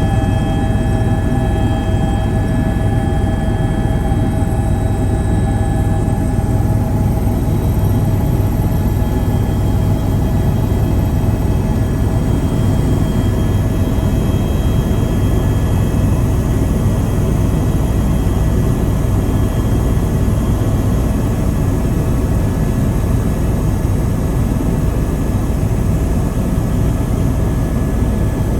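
Helicopter in steady flight, heard from inside the cabin: a loud, even low drone of engine and rotor with a constant high whine over it.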